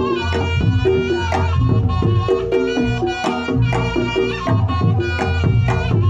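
Reog Ponorogo gamelan ensemble playing the standard jathilan accompaniment. A reedy slompret shawm carries a wavering melody over steady kendang drum strokes and low gong tones.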